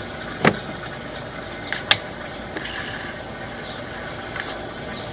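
A steady mechanical running hum with two sharp clicks, about half a second and two seconds in.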